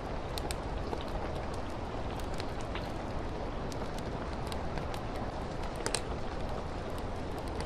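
Steady rain with a crackling fireplace fire: a constant hiss of rain under scattered small sharp crackles and pops, one stronger pop about six seconds in.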